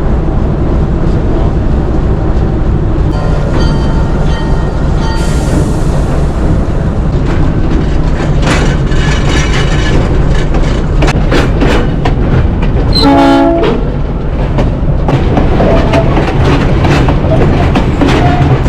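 Diesel locomotive and train running with a steady heavy rumble and scattered rail clicks. A brief horn-like tone sounds about 13 seconds in.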